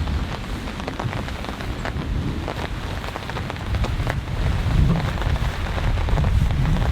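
Heavy thunderstorm rain pelting down, individual drops striking close by as sharp taps over a steady wash of rain. Underneath is a low rumble of thunder that swells about two-thirds of the way through.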